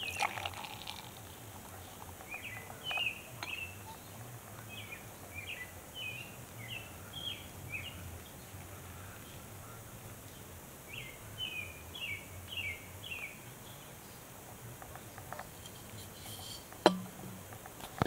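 A songbird singing series of short, quick, downward-sweeping chirps, over a faint steady low hum and the quiet pour of beer from a bottle into a glass. A single sharp click near the end.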